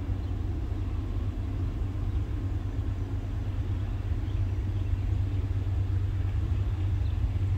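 Low, steady rumble of a Norfolk Southern coal train's diesel locomotives, still far off down the line.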